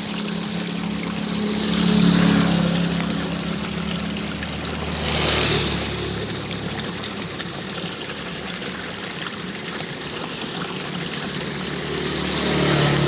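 Water running steadily in a drainage ditch in the rain, a constant rushing hiss. A low hum rises and falls over it, swelling about two seconds in and again near the end.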